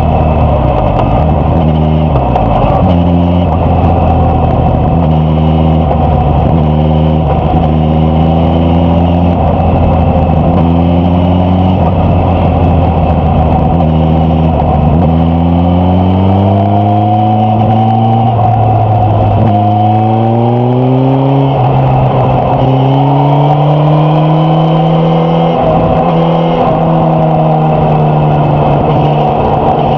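Suzuki GSX-S1000F inline-four engine and exhaust under way on the road. The note holds fairly steady for about the first half, then climbs in pitch several times with short drops between, as the bike accelerates through the gears.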